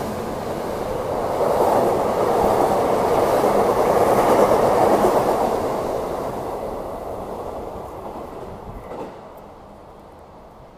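E259 series Narita Express electric train passing through the station at speed without stopping. Its loud, steady running noise builds to a peak about four to five seconds in, then fades away as the train recedes.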